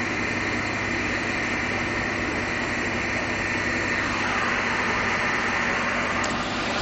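Steady engine drone with a hiss over it, and a whine that falls in pitch about four seconds in.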